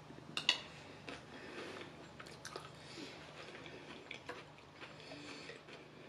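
A person chewing food with her mouth closed, close to the microphone, with a couple of sharp clicks about half a second in and small soft clicks through the rest.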